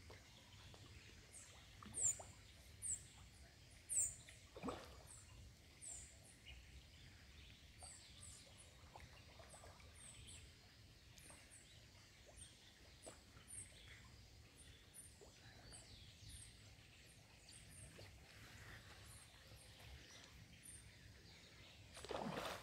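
Quiet outdoor ambience with a small bird repeating short, high, down-slurred chirps many times, the loudest ones in the first five seconds, and a few faint soft knocks.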